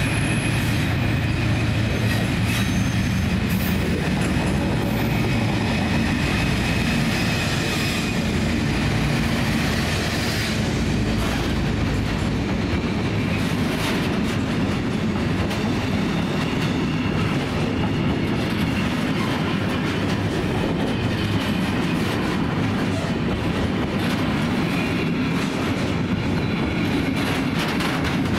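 Colas Rail freight train of log wagons behind Class 56 diesel locomotives rolling steadily past, with a low rumble and wheels clattering over the rail joints. A thin wheel squeal fades out about eight seconds in.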